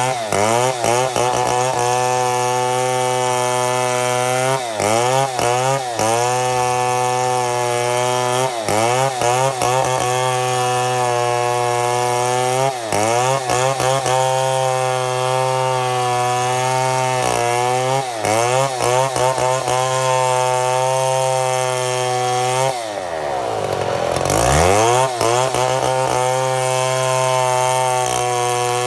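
Chainsaw running at full throttle while milling mahogany lumber, its pitch dipping briefly every few seconds as the chain loads up in the cut. A little over twenty seconds in, the revs fall away sharply and then climb back up.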